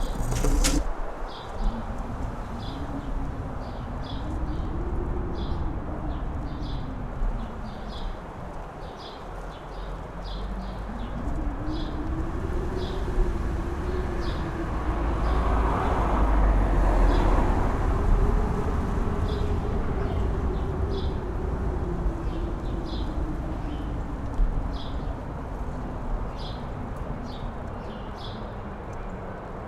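Mountain-top wind gusting, with a howling tone that rises and falls in pitch over a low rumble; the gust is strongest about halfway through. A faint short high chirp repeats about once a second throughout.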